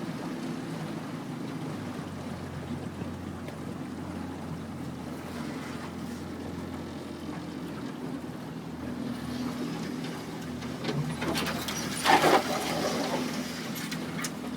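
Boat motor running at a steady speed with water noise under it. About twelve seconds in, a brief louder rush of noise rises over it.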